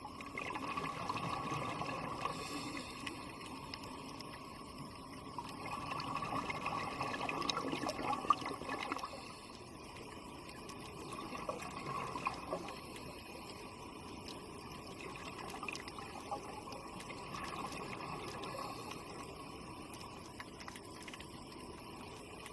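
Water bubbling and trickling, swelling and fading in several waves, with a few small clicks.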